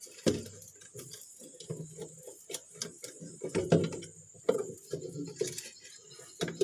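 Irregular clicks and light knocks of hands fitting a refrigerator defrost timer and its wiring into place, with the loudest knock a little before the middle.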